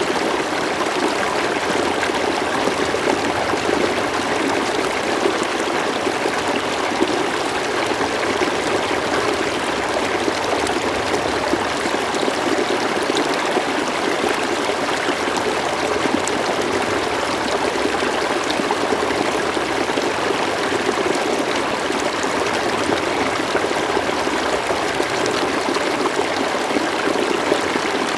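River water flowing steadily over stones, a continuous even rush with fine trickling and babbling.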